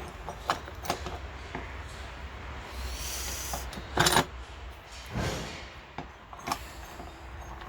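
Lawn tractor transmission being shifted through its gears by hand: a few separate metallic clicks and clunks, the loudest about four seconds in, as the selector engages now that the gearbox shifts easily.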